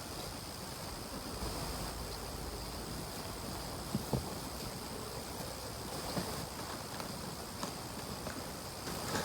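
Outdoor forest ambience: a steady hiss with a thin, even high hum over it, and two short knocks about four seconds in.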